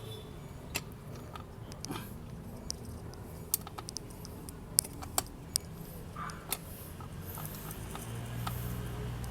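Scattered sharp metal clicks and light taps of screws and a steel chain guard being handled and hand-tightened on a motorcycle, the loudest click about five seconds in.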